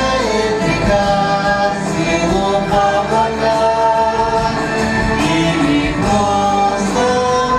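A song with voices singing long held notes without clear words.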